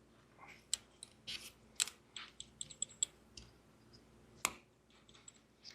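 Hand tools and metal parts clinking and clicking as a fastener and bracket are worked on: a string of irregular sharp clicks, some with a light metallic ring.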